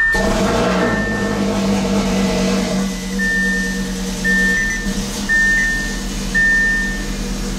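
Audi RS3's 2.5-litre turbocharged inline five-cylinder running at a steady idle just after starting on a freshly flashed tune. A dashboard warning chime beeps about once a second over it.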